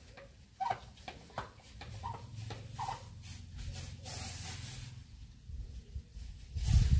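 Chickens clucking briefly now and then, with a short hiss about four seconds in.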